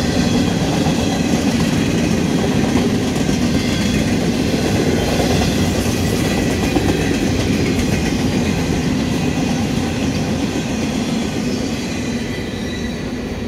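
Freight train of empty intermodal well cars rolling past, steel wheels clattering over the rail joints in a steady rumble. The sound eases off near the end as the last cars go by.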